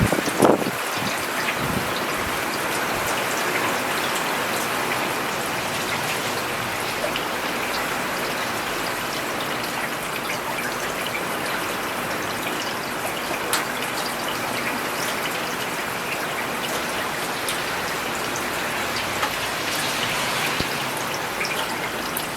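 Steady rain falling on a paved urban road, a dense even patter of drops. There is a brief louder low thud about half a second in.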